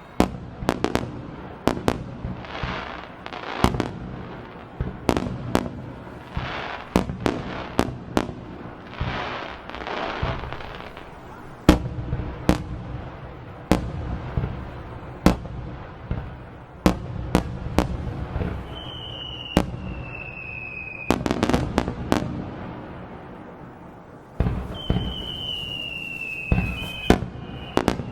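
Aerial fireworks going off in quick succession: many sharp bangs and reports mixed with longer booms that echo away. Twice, in the second half, a high falling whistle sounds for two to three seconds among the bursts.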